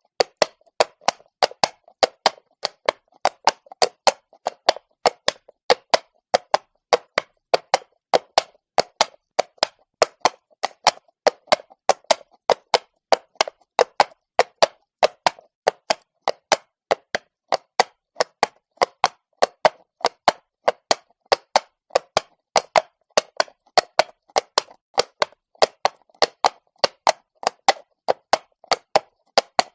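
Horse hooves clopping on cobblestone at a walk: sharp, even clacks, about three a second, in a steady unbroken rhythm.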